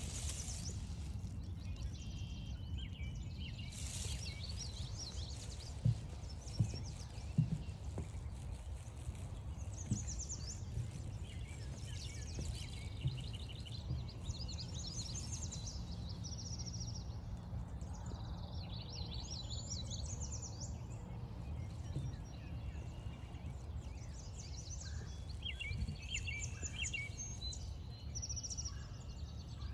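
Several songbirds singing and calling from the surrounding woods over a steady low rumble, with a few brief thumps about a third of the way in.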